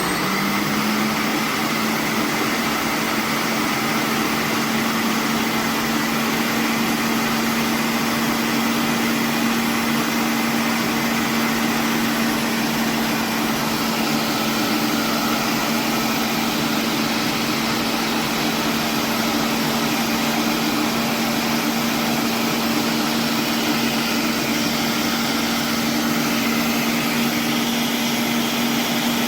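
Countertop blender running at high speed: a loud, steady motor whine that rises in pitch as it starts, holds steady, then drops as it stops at the very end.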